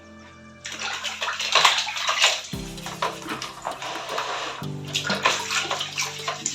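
Water running from a tap and splashing onto a removed fridge part as it is washed, starting suddenly about half a second in. Background music plays underneath.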